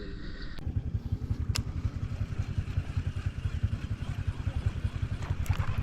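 Boat engine running with a steady, rapid low pulsing, growing louder about a second in as it picks up, with a single sharp click a moment later.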